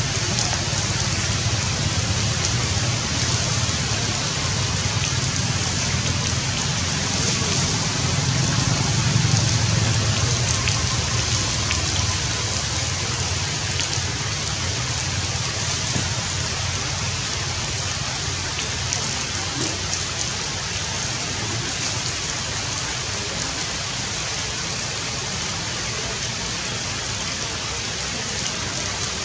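Steady rain falling on foliage: a continuous hiss with faint scattered drop ticks and a low rumble underneath, swelling slightly about a third of the way in.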